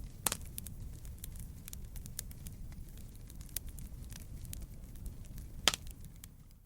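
Wood fire crackling in a fireplace: a steady low rumble of flames with frequent small crackles, and two louder pops, one just after the start and one near the end.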